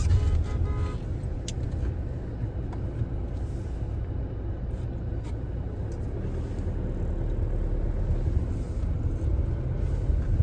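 Steady low road and engine rumble heard from inside a moving car's cabin, with a short pitched tone in the first second and a few faint clicks.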